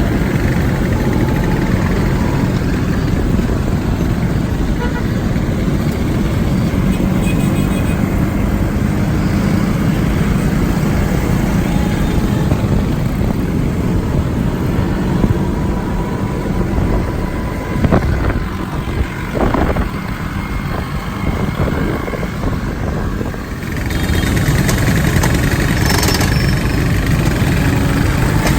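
Motorcycle engine running with road and wind noise, heard from on the bike while riding in city traffic. It eases off and gets quieter about two-thirds of the way through, then picks up again near the end.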